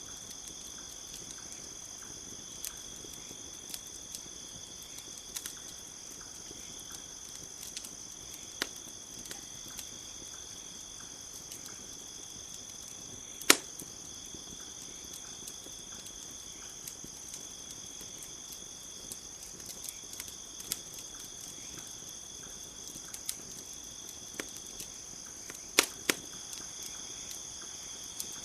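Campfire crackling with scattered sharp pops over a steady high-pitched chorus of crickets. The loudest pop comes about halfway through, and two more come close together near the end.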